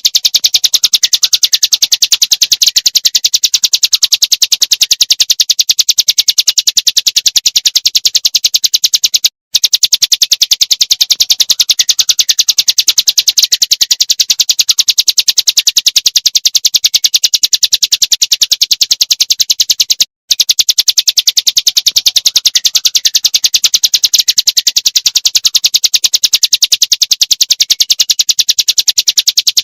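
Small songbirds' calls, a fast, even chattering of sharp high chirps, played as a loud loop that breaks off for a moment about nine and twenty seconds in.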